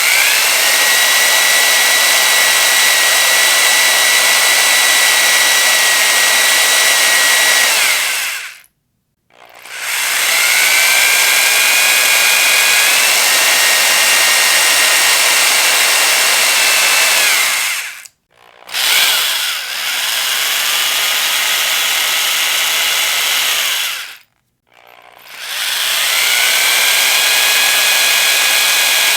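Electric power drill running in long bursts, a high motor whine whose pitch slides up as it spins up and down as it winds down. It stops and restarts three times, with a pause of about a second or less each time.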